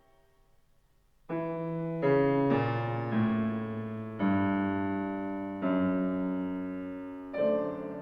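Piano music: after about a second of near silence, slow chords struck one after another, each ringing and fading before the next.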